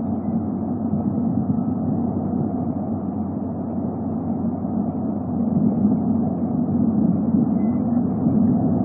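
Steady low rumbling background noise picked up by an outdoor nest camera's microphone, swelling slightly about five seconds in.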